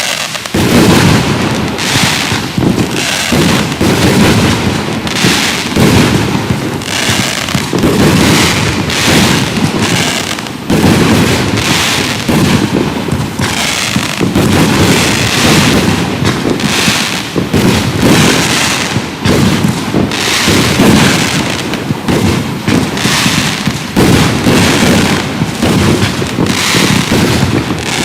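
Consumer aerial firework cakes from the UFO Apocalypse assortment firing a continuous barrage, with launch thumps and bursts following one another many times a second without a break.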